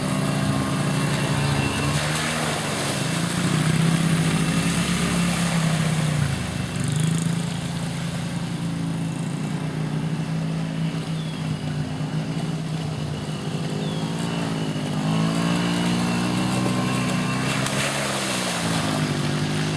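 Small 50cc engines of a Honda CRF50 dirt bike and a Predator 50 four-wheeler running, their pitch rising and falling several times as the throttle is opened and eased off.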